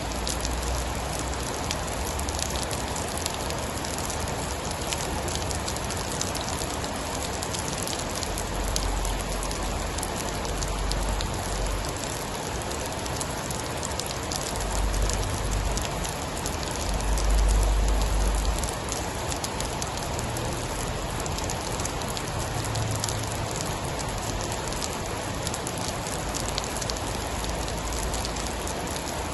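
Steady heavy rain, a dense hiss with many fine drop ticks, with several low rumbles of thunder swelling under it, the loudest a little past the middle.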